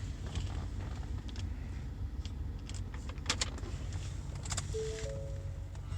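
Keys jangling and clicking as a key is put into the ignition of a Ford F-250 Super Duty, over a steady low rumble. Near the end a short electronic chime of a few stepped tones sounds.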